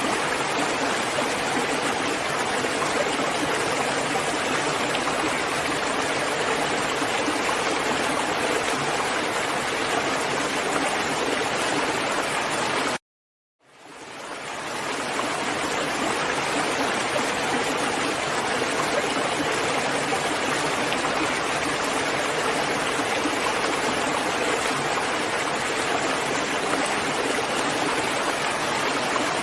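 Steady, even rain noise. It cuts out suddenly about thirteen seconds in, is silent for under a second, then fades back up over a couple of seconds to the same steady level.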